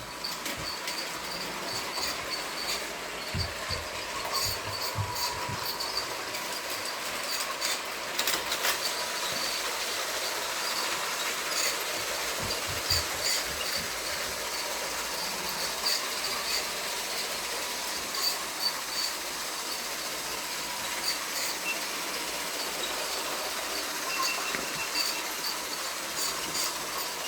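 Lego toy train running on its track: a steady whirring hiss with many light, irregular clicks throughout.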